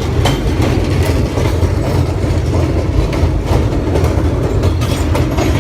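New York City subway car (R40) running along the track, heard from on board: a loud, steady low rumble with irregular clicks from the wheels over rail joints.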